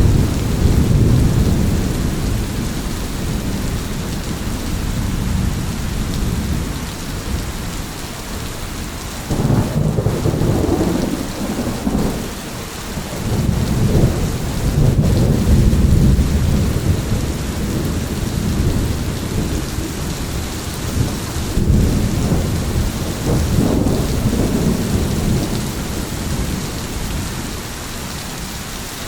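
Thunderstorm: steady heavy rain with rolling thunder that swells and fades several times.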